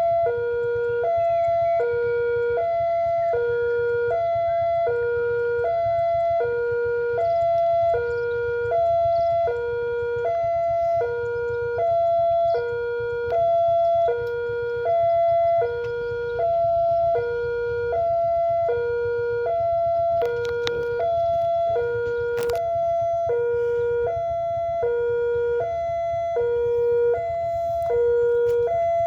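Two-tone electronic railway warning alarm sounding for an approaching train, alternating evenly between a lower and a higher tone about once a second each. A few sharp clicks come in about twenty seconds in.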